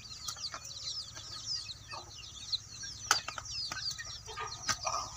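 Birds chirping constantly in short, quick calls, with a few sharp clicks about three seconds in and again near the end.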